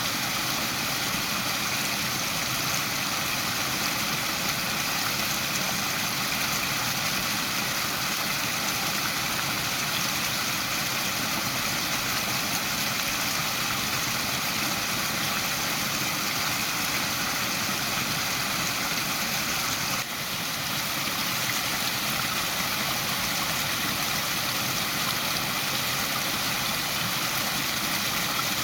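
Waterfall: water rushing steadily, with a brief drop in level about twenty seconds in.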